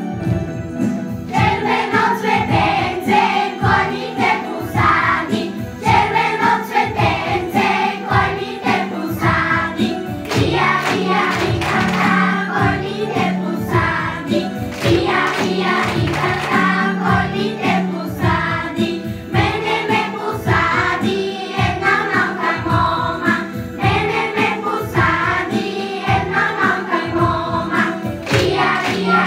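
A group singing a song over backing music with a steady beat; the singing comes in about a second in.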